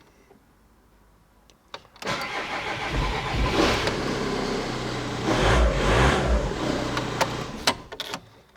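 Car engine being cranked by the starter motor for about six seconds, with two heavier surges along the way, then stopping: a slow, hard start from cold, which the owner suspects comes from a faulty camshaft position sensor.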